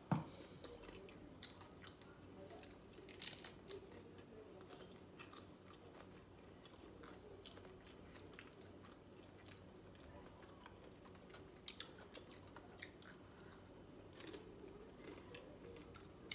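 People chewing crunchy corn taco shells: faint, scattered crunches and crackles of the hard shells breaking between the teeth, with a sharp knock right at the start.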